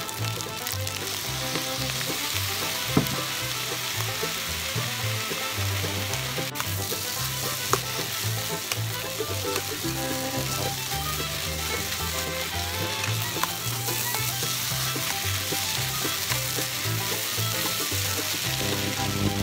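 Fried rice sizzling in a stainless steel pan as it is stir-fried with a metal spatula, which scrapes the pan and knocks against it now and then. Soft background music runs underneath.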